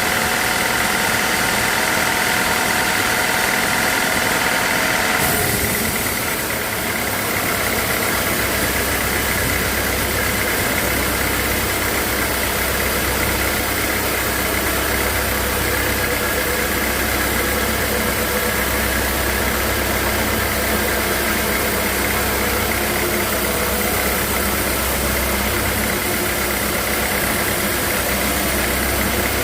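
Sawmill machinery running steadily, with an abrupt change in its tone about five seconds in.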